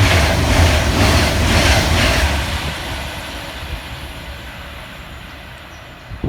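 Avanti West Coast Class 390 Pendolino electric train passing through at speed, its wheels giving a regular beat about two to three times a second. The noise then fades away steadily over the last few seconds as the train draws off.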